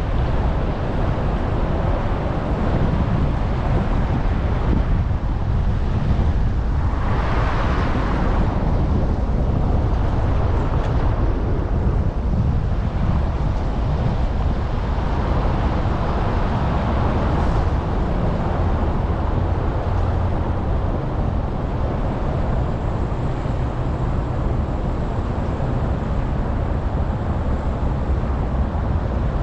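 Steady low rumble of wind buffeting a GoPro's microphone on a moving bicycle, with road noise underneath and a brief louder swell about seven seconds in.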